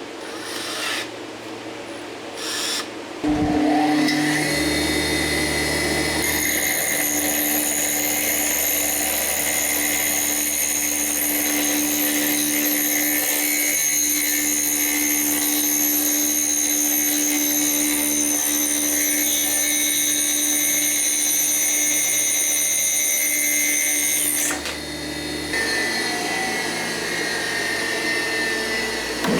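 A power tool running steadily with a high whine. It starts about three seconds in and winds down a few seconds before the end.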